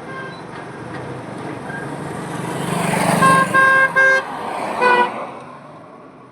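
A vehicle passes close on a highway, sounding its horn in three short toots in quick succession about three seconds in and one more a second later. The traffic noise swells as it nears and fades after it goes by.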